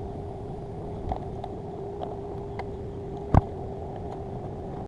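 Steady background hum with a few light clicks of hand tools or meter leads being handled, and one sharp click about three and a half seconds in.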